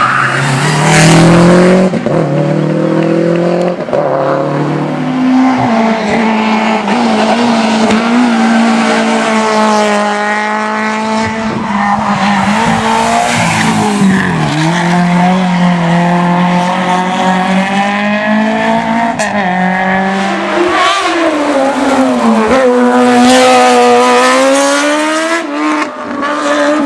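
Rally car engine revving hard, its pitch climbing and then dropping at each gear change, several times over.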